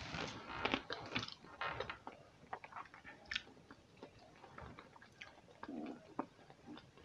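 Chewing a mouthful of sushi roll, picked up close by a clip-on microphone: soft, irregular wet mouth clicks and smacks, busier in the first couple of seconds.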